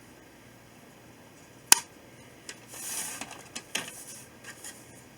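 Scissors and paper being handled: one sharp snap a little under two seconds in, then a short rustle of paper and a few light clicks.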